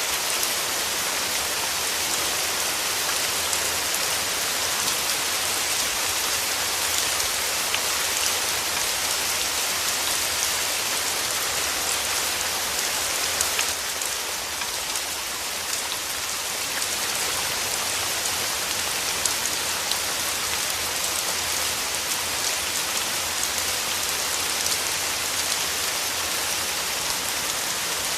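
Steady rain falling, an even hiss with scattered drop ticks, easing slightly about halfway through.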